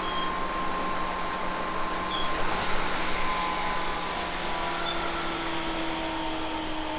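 Tobu 10000 series electric train heard aboard a motor car while running: steady rail and running noise with a whine from the traction motors and gears whose pitch slowly falls as the train eases off, a second lower whine joining about two-thirds of the way in. Short high squeaks come and go throughout.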